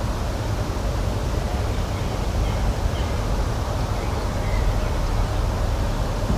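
Outdoor nature ambience: a steady low rushing noise with a few faint, short bird chirps scattered through it.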